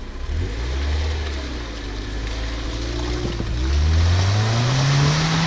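Chevrolet Niva engine running under load, then revving up with a clearly rising pitch about two-thirds of the way through as the SUV tries to push through a deep rut.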